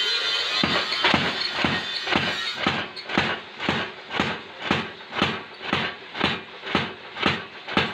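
Steady, even hammer blows on metal at a blacksmith's forge, about two strikes a second, starting about half a second in. A machine whine fades out just as the blows begin.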